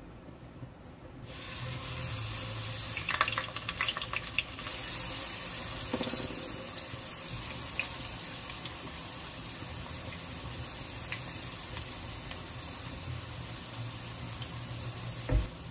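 Battered kangkong (water spinach) leaves sizzling as they deep-fry in hot oil in a wok. The steady sizzle starts about a second in, with a spell of crackling and popping a few seconds later and a short thump near the end.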